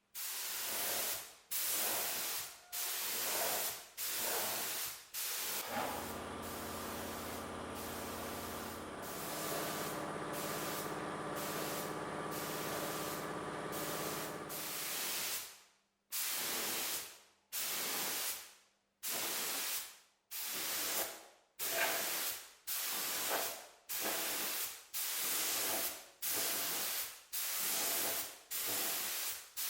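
Paint spraying hissing in short bursts of about a second each. In the middle comes one longer unbroken spray of about nine seconds with a steady hum under it.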